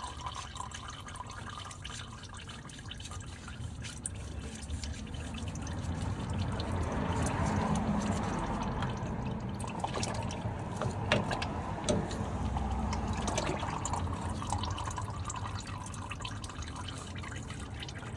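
Engine oil dribbling and pouring out of the opened oil filter housing into a drain pan. The flow swells after a few seconds and then eases, with a few sharp clicks a little past the middle.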